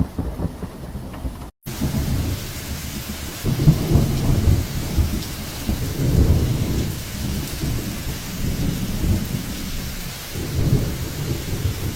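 Storm ambience: a steady rushing hiss with repeated low rumbling swells, briefly cutting out about one and a half seconds in.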